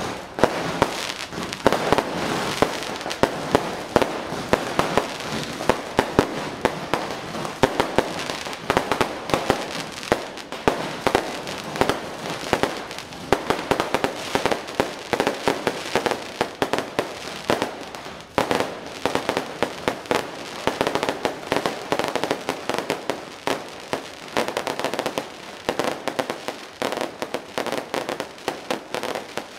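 Electrically fired fireworks going off in a dense, continuous crackle, with many sharp pops and bangs several times a second.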